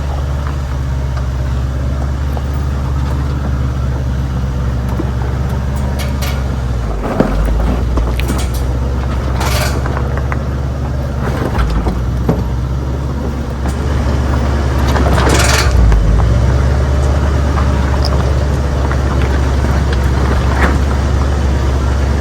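Old tow truck's engine running low and steady while creeping down a rough dirt road, with scattered knocks and rattles from the truck over the bumps.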